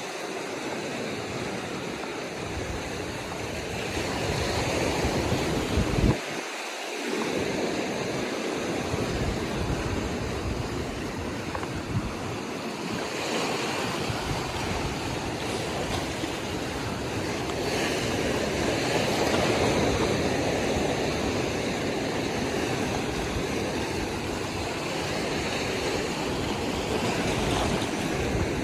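Ocean surf breaking and washing on the atoll shore, swelling and easing, with wind buffeting the microphone. A brief thump about six seconds in.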